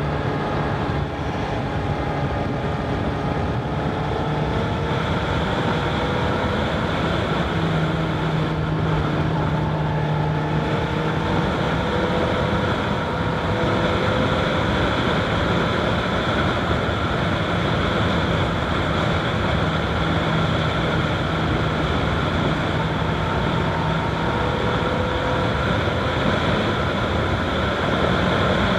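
Honda CBR1000RR SP's inline-four engine running on the road at a steady cruise, its note rising gently a few times, with wind noise on the microphone mixed in.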